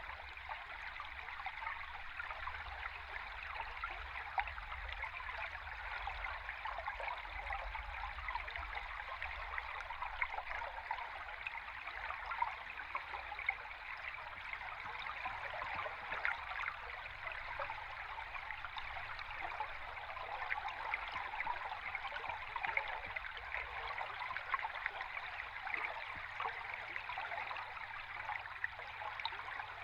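Flowing river water heard underwater: a steady rushing stream with fine bubbling and crackling all through, over a faint low rumble that weakens about two-thirds of the way in.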